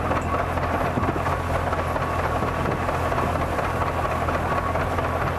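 Antique farm machinery cutting grain: a vintage tractor engine running steadily with a constant low hum.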